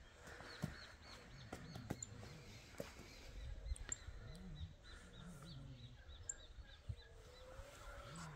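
Faint outdoor birdsong: a bird giving two runs of quick, high, repeated chirps, about five a second, with a few sharp clicks scattered through.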